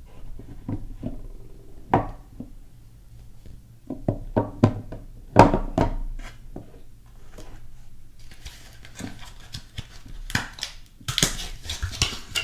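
Hands unpacking a bar of soap: a run of light knocks and taps on the packaging, then crinkling of the wrapper over the last few seconds, loudest near the end.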